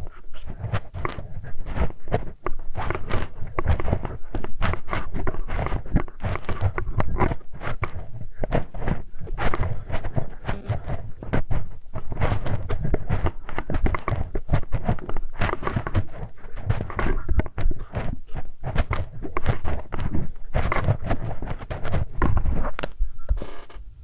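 Close-miked ear-cleaning ASMR sounds: a metal hex key (Allen wrench) scraping, tapping and turning against the microphone, a dense run of clicks and rubbing scratches.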